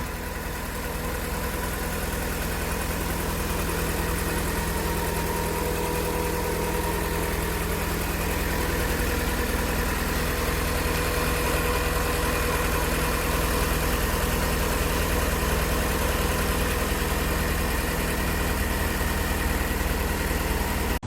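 VW Lupo GTI's 1.6-litre four-cylinder engine idling steadily.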